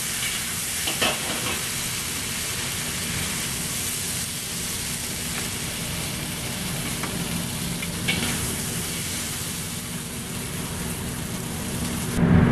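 Beef and snow peas sizzling in a hot wok, a steady frying hiss, with a metal ladle and spatula knocking against the wok a couple of times as the stir-fry is scooped out, and a louder clatter of utensils near the end.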